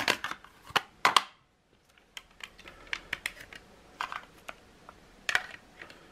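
Small plastic clicks and taps from a Crown SZ-31 cassette Walkman being handled and fitted back together, its circuit board and casing snapping into place. A cluster of sharp clicks comes in the first second, with scattered lighter taps after and another sharp click about five seconds in.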